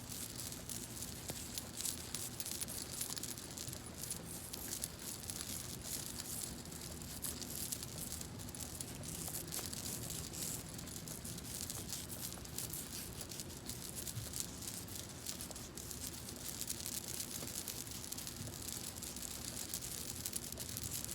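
Hands rubbing product into hair close to a phone microphone: a continuous, dense crackling and scratching.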